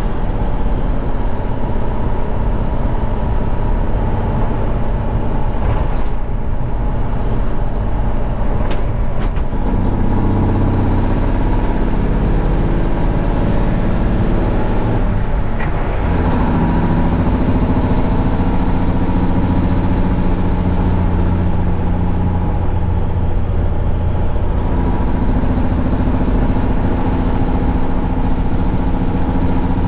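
Heavy diesel truck engine running under way, a steady low drone whose pitch shifts several times as the engine speed changes.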